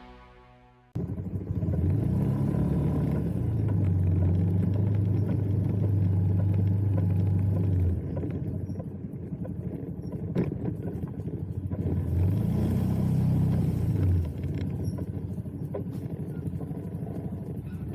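Motorbike engine on the move with road noise: it revs up and holds a steady pitch for several seconds, eases off, then revs up and eases off again briefly later on.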